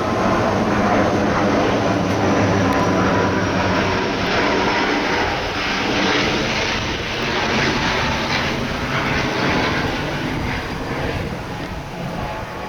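ATR 72 turboprop airliner's engines and propellers running loud and steady as the plane passes, with a steady whine over a wide rush, slowly fading over the last few seconds.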